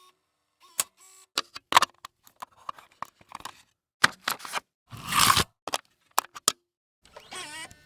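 Camera mechanism sound effects: a quick series of sharp mechanical clicks and snaps, with a louder noisy burst about five seconds in and a short whir near the end.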